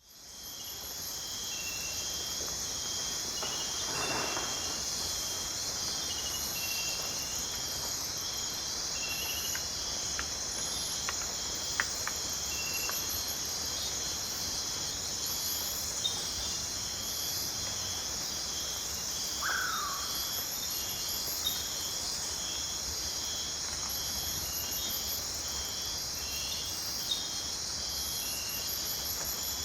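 Rainforest insect chorus at night: a dense, steady high trill with rows of short, evenly repeated chirps above and below it. The sound fades in over the first second. A few sharp clicks come around the middle, and a single brief falling call sounds about twenty seconds in.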